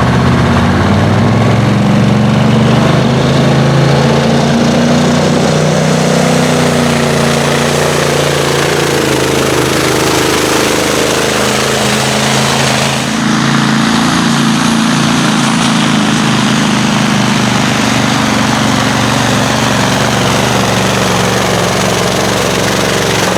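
A pulling vehicle's engine runs loud and steady under load. About thirteen seconds in it briefly dips and changes pitch, then carries on.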